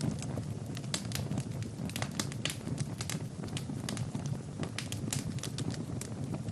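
Wood fire burning in a fireplace, crackling with frequent irregular sharp pops over a low, steady rumble.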